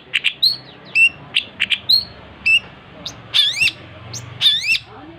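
Long-tailed shrike (cendet) singing energetically: a quick run of sharp chirps, then from about three seconds in, pairs of swooping notes that rise and fall.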